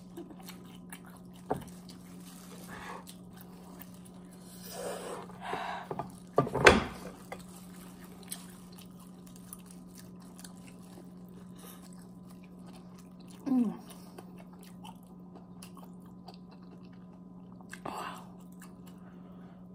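Close-up chewing and biting of boiled seafood, king crab and shrimp, with a few soft crunches and one sharp crack about a third of the way in. A brief low vocal sound from the eater comes about two-thirds through, over a steady low hum.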